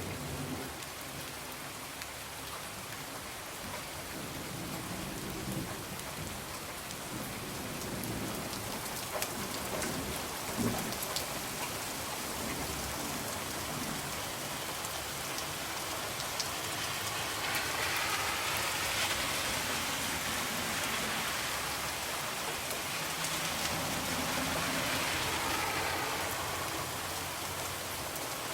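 Steady heavy rain pattering on a window, with low thunder rumbling now and then beneath it.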